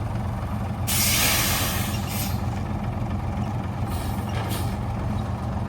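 Heavy truck engine running steadily, with a loud hiss of compressed air from the air brakes about a second in, followed by a few shorter puffs of air.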